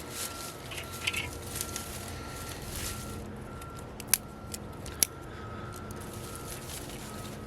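Log fire in a fireplace crackling over a steady low rush of flame, with two sharp pops about four and five seconds in.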